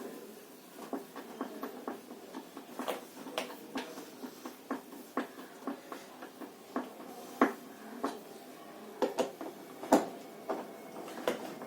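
Irregular sharp clicks and knocks of washing-machine parts and tools being handled, with the loudest about seven and a half and ten seconds in.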